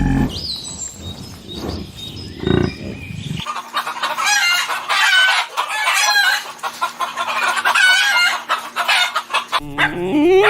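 Chickens clucking with rooster crowing, with many birds calling over one another in the middle of the stretch.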